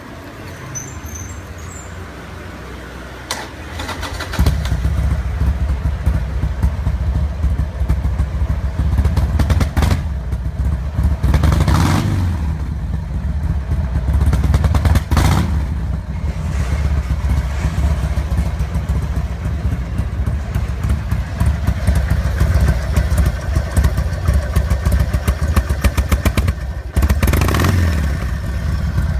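A carburetted 2005 Harley-Davidson 1200 V-twin starts about four seconds in, then runs loudly through its added exhaust with the loping Harley beat, rising a few times as the throttle is opened.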